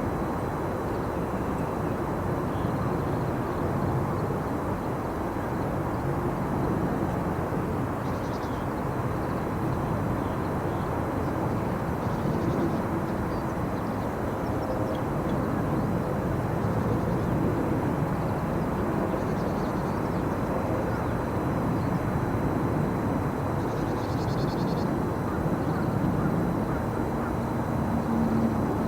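Steady low outdoor rumble, like distant traffic, with faint short high chirps of small birds a few times.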